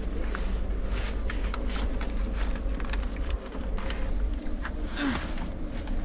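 Passenger train running: a steady low rumble with irregular clicks and rattles.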